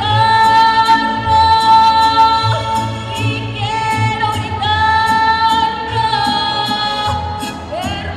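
A song with a high singing voice holding long, drawn-out notes over a steady beat and bass.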